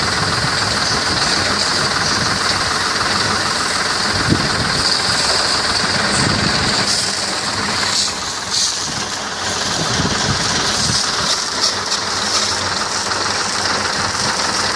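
Tractor engine running steadily while driving a PTO-powered triplex piston sprayer pump, with a constant high hiss over the engine's low rumble.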